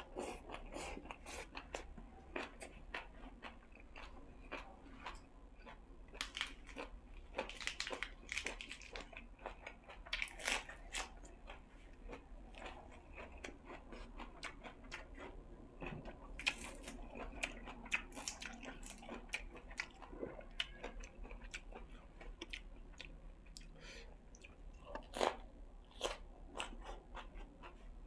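A person chewing and crunching food close to the microphone, with irregular crunchy bites and a few louder crunches.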